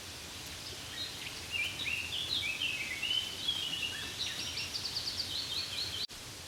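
Steady light rain hiss with a songbird singing a long, varied run of quick chirps and short glides, including a fast trill, cut off abruptly near the end.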